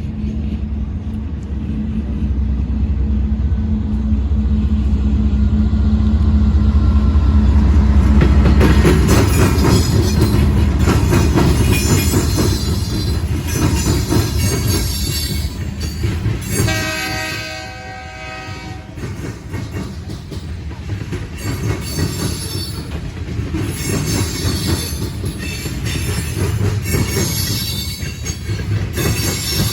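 BNSF GE Dash-9 diesel locomotives pass with a deep, loud engine drone. The freight cars follow, their wheels clattering in quick repeated clicks over the diamond crossings with occasional high squeals. A multi-note air horn sounds for about two seconds around the middle.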